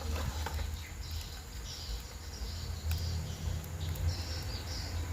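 Small birds chirping in short repeated calls in the background, over a steady low rumble.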